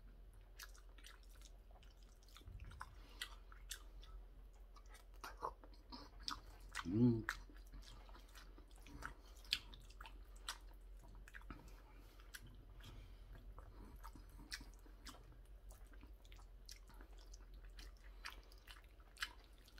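A man chewing mouthfuls of curry rice, with frequent short wet mouth clicks and smacks and a metal spoon working in a stainless steel bowl. A brief hum from his voice about seven seconds in is the loudest moment.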